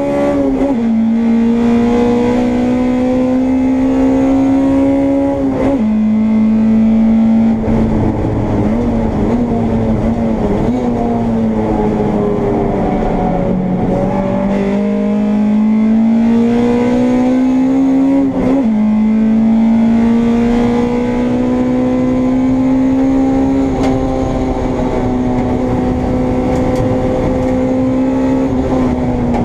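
Honda Integra race car's engine heard from onboard under racing load. Its note climbs slowly and drops sharply at gear changes about five and a half and eighteen and a half seconds in, and wavers and falls in between. Road and wind noise run underneath.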